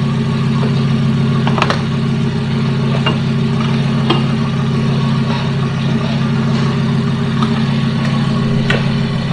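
The Donkervoort D8 GTO-40's Audi 2.5-litre five-cylinder turbo engine idling steadily, with a few short clicks from seatbelts being buckled.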